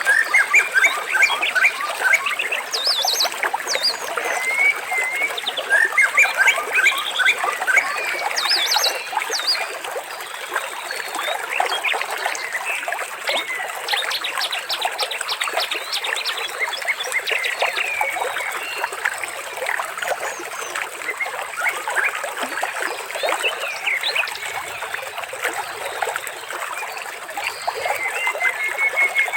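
Many birds chirping and trilling in short overlapping calls over a steady trickle of water.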